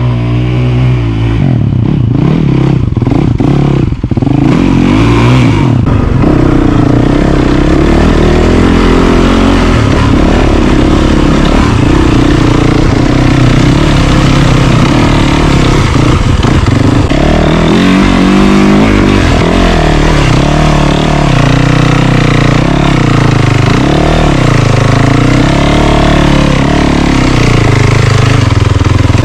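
Yamaha YZ450FX dirt bike's single-cylinder four-stroke engine being ridden hard off-road, its pitch rising and falling over and over with the throttle and gear changes.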